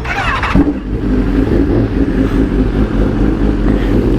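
Sport motorcycle's inline-four engine idling steadily, after a brief rise in revs in the first half-second.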